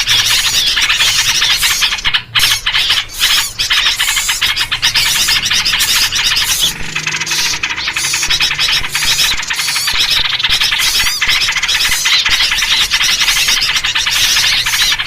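Dense, continuous chattering and chirping of many small birds at once, a bird-lure recording that includes yellow-vented bulbul (trucuk) calls.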